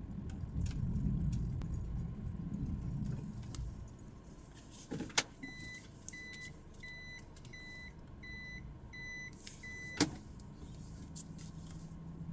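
A car's engine running low, then a sharp clack, a row of electronic warning beeps at about two a second for some four seconds, and another clack as the beeping stops.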